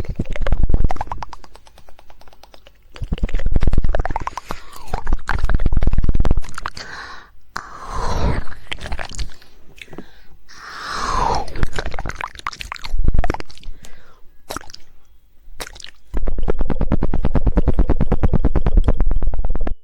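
ASMR mouth sounds close to the microphone: rapid "woodpecker" tongue clicking and wet mouth noises in uneven bursts. A fast, even run of clicks starts about three-quarters of the way through.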